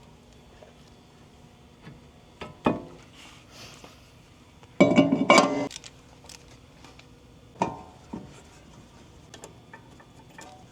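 Metal tools and brake parts clinking and knocking during front brake assembly: scattered clicks and knocks, with one louder rattling clatter lasting about a second, roughly five seconds in.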